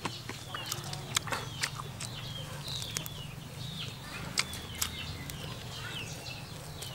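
Eating sounds: chewing and sharp mouth smacks and clicks while biting into a piece of roast chicken, with the loudest clicks about a second in and again near four and a half seconds in. Birds chirp repeatedly in the background over a steady low hum.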